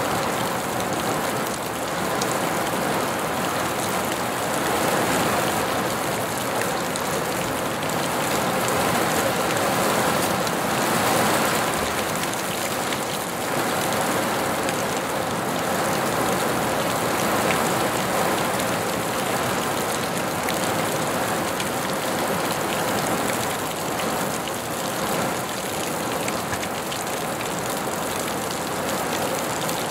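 Steady rain falling, a dense even hiss of many drops with a fine patter, with no thunder.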